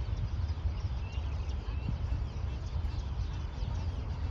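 Many small birds chirping and twittering in quick, short calls, over a steady low rumble.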